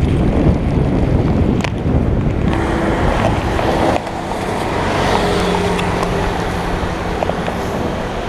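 Wind buffeting the microphone while riding along a road, with the steady noise of passing traffic.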